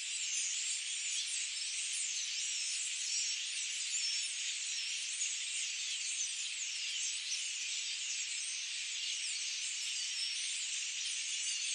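Dense forest bird chorus: many birds singing at once, a steady high-pitched wash of overlapping chirps and short whistles.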